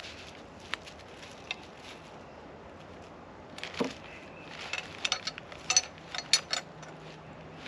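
Handling noise: scattered sharp clicks and crinkles, a quick run of them in the second half, over a steady low hiss.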